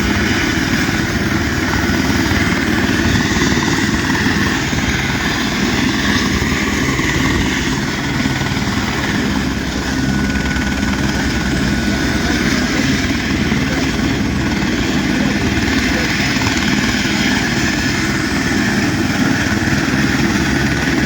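An engine running steadily, with a fast, even pulsing low down.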